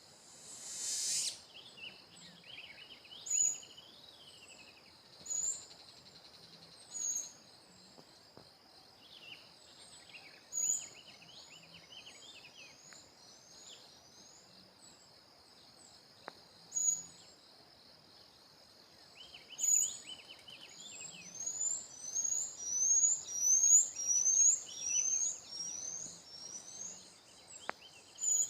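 Wild songbirds singing: repeated short, high whistled notes and lower warbling phrases over a steady, high insect drone. Near the end comes a fast series of rising notes, the loudest stretch.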